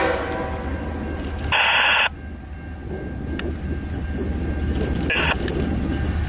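BNSF diesel freight locomotives approaching with a string of hopper cars, a low rumble that grows steadily louder. Two short bursts of scanner-radio static cut in, one about a second and a half in and a briefer one about five seconds in.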